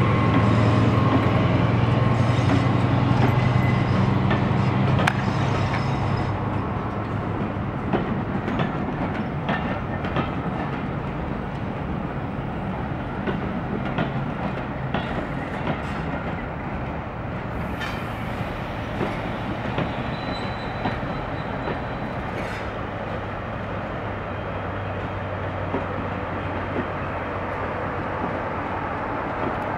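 Diesel-hauled train passing: the English Electric engine of a Class 20 locomotive runs loudly as it goes by, then fades in the first few seconds. The coaches roll past with wheels clicking over rail joints, and the low hum of a Class 47's Sulzer engine on the rear builds up near the end.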